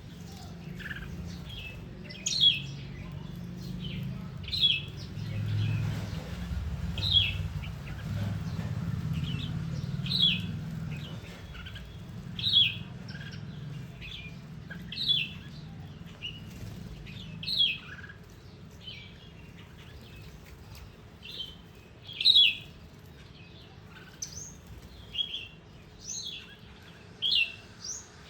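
Small birds chirping: a short, sharp high chirp repeats about every two and a half seconds, with fainter chirps between. A low rumble runs underneath for the first half.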